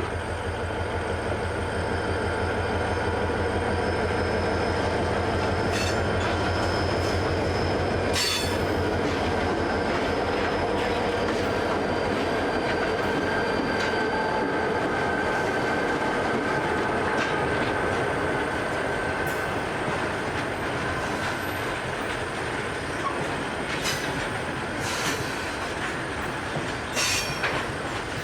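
Grain train passing: the two diesel locomotives throb for the first eight or nine seconds, then the grain hopper wagons roll by with a steady wheel squeal and a few sharp clacks over rail joints.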